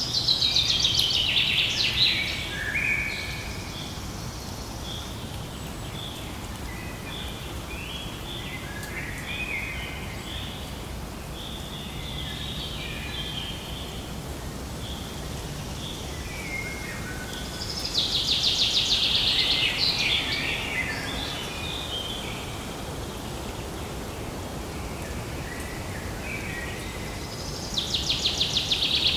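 Songbirds singing: a loud, fast trilling phrase near the start, again about eighteen seconds in and once more near the end, with scattered short chirps in between over a steady background hiss.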